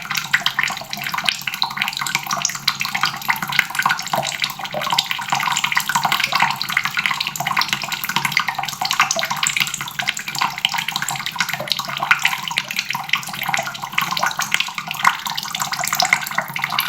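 Water faucet running steadily, the stream splashing continuously into the basin below.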